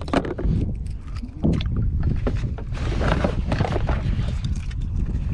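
Wind rumbling on the microphone, with shallow water sloshing and splashing around a kayak and a few knocks of handling.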